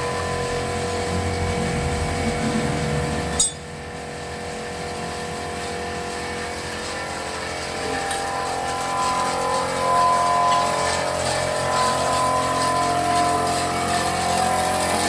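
A machine's motor running steadily. A sharp click comes about three and a half seconds in, after which it runs quieter, then it builds back up louder from about eight seconds.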